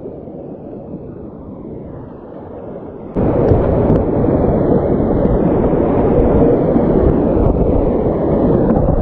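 Rushing whitewater of a mountain creek in rainy-season spate, a loud, even rushing noise that jumps abruptly louder about three seconds in.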